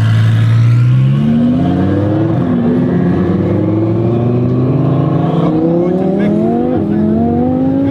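Twin-turbo Audi R8 V10 Plus engine holding a steady tone, then accelerating hard under full throttle. Its pitch climbs and drops abruptly twice, at upshifts.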